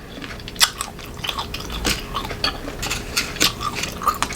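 Crunching and chewing of raw green mango: an irregular run of crisp, crunchy bites.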